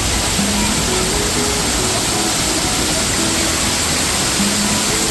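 Steady loud rush of falling water from a waterfall, with faint music notes over it.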